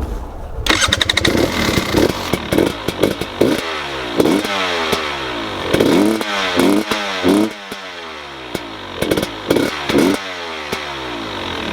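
A 2020 KTM 300 XC TPI's single-cylinder two-stroke engine, starting suddenly under a second in and then idling with about a dozen short, sharp throttle blips, some in quick clusters of two or three, each rev rising and falling quickly back to idle.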